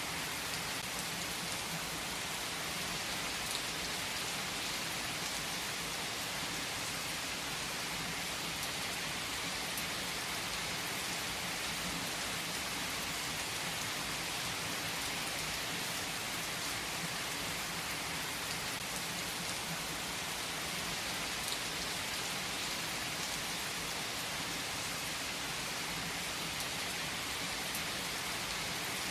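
Steady rain falling, an even hiss of drops with occasional faint individual drop ticks.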